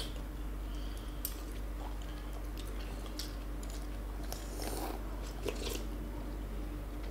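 Close-up eating sounds of rice porridge with pork offal: chewing and wet mouth smacks, with a few brief clicks, the loudest a little under five seconds in, over a faint steady hum.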